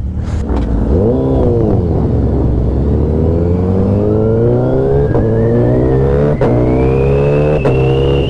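Motorcycle engine under way on the highway: a quick rise and fall in revs about a second in, then a steady climb in pitch over several seconds as it accelerates, with a thin whine rising alongside.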